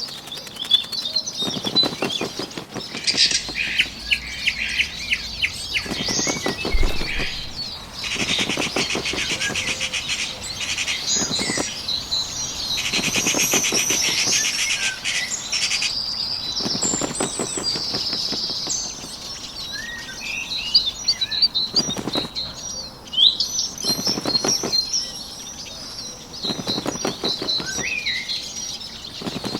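Nature-ambience sound effect of small birds chirping and twittering, with a burst of wings flapping every few seconds.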